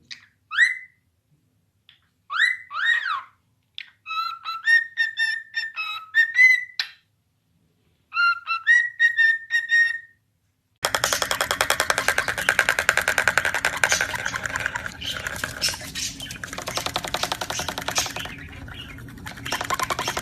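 A parrot whistling and calling in short phrases, with rising, slurred whistle notes and pauses between them. About eleven seconds in, music cuts in abruptly and runs on with a fast, steady pulse.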